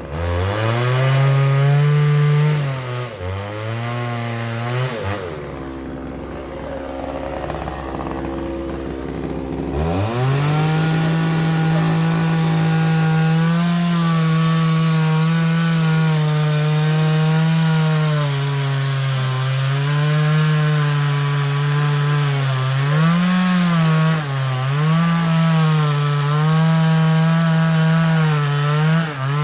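Chainsaw running at high revs and cutting wood. It drops toward idle and revs back up three times in the first ten seconds, then holds a steady pitch under load with small dips as it bites.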